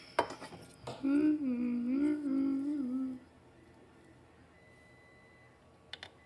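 A person humming a short, wavering tune for about two seconds, with a few small clicks before it and near the end.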